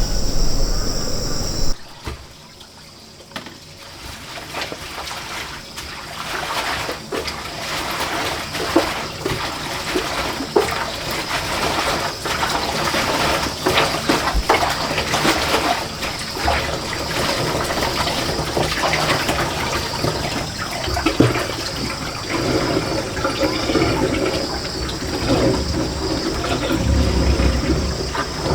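Water running and splashing steadily, with many small knocks and clatters, starting after an abrupt change about two seconds in.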